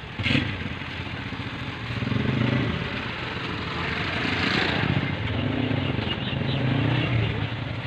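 Street traffic at an outdoor used-car market: motorcycle and car engines running and passing.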